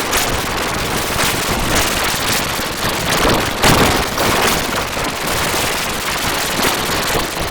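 Harsh, digitally distorted noise with dense crackling and popping throughout: a logo sound mangled beyond recognition by an audio effects chain.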